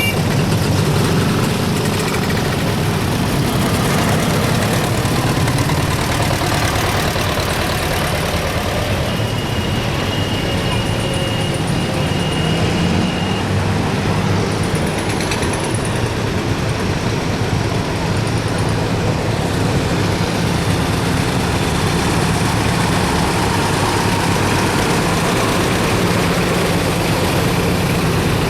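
Engines of veteran vehicles running as they pass in a procession: a steady low engine drone with no pauses.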